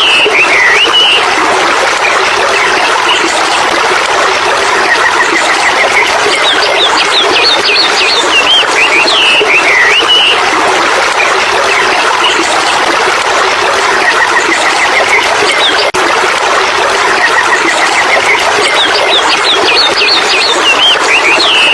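Stream water running in a steady rush, with a bird calling over it. Its phrase of quick falling chirps comes back about every ten seconds, with softer runs of short notes in between.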